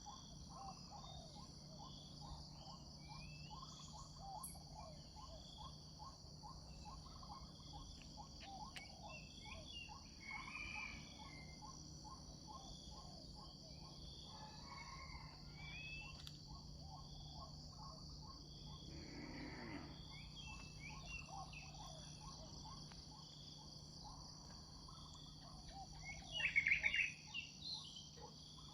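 Rural ambience: a steady high-pitched drone of insects such as crickets, with a quick run of short repeated calls below it and scattered bird chirps. A louder burst of bird calls comes near the end, and a low steady hum runs underneath.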